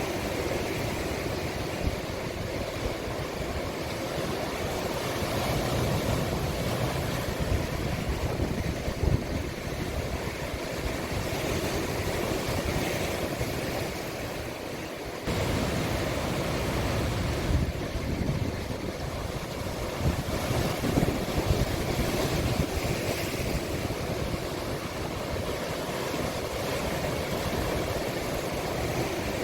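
Sea waves washing and breaking on the shore of a small cove, a steady surf that swells and eases, with wind rumbling on the microphone. About halfway through the sound jumps abruptly to a louder stretch, like a cut.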